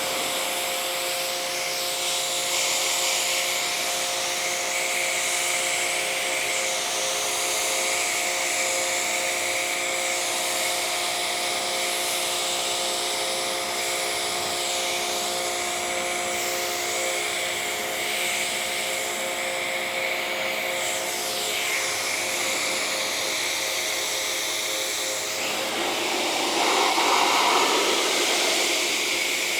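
Pressure washer running and spraying water on a car, rinsing off bird droppings: a steady motor hum under a broad hiss of spray that shifts as the jet moves across the surfaces, a little louder near the end.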